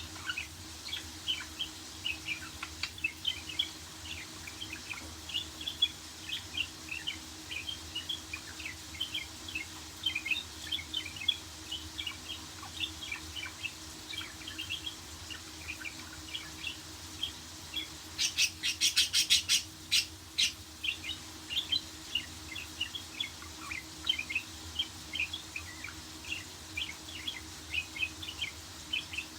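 Budgerigars chattering in quick, short chirps without a break. About two-thirds of the way through comes a brief run of sharp clicks. A faint steady hum sits underneath.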